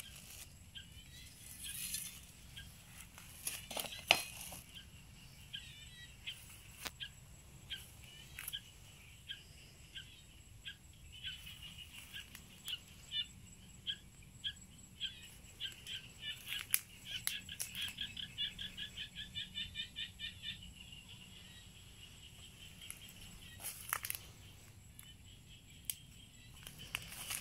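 A bird calling in a series of short chirps that quicken into a fast run of several a second, then stop. A few sharp clicks are heard now and then.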